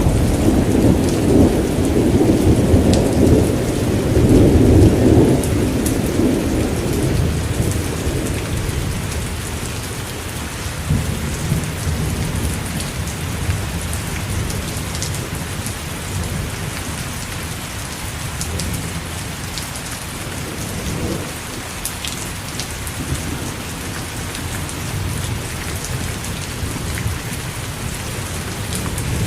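Steady rain with a long roll of thunder rumbling through the first several seconds and dying away, leaving the rain alone.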